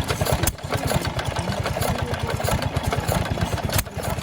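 Antique tractor engine running with a rapid, even firing beat.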